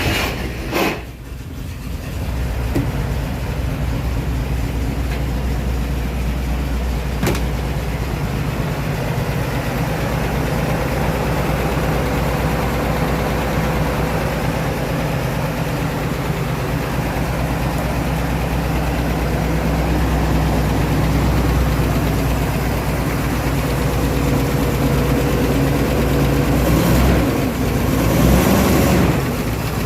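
GAZ-12 ZIM's straight-six flathead engine running just after being started. It settles into a steady idle about two seconds in and is briefly revved near the end.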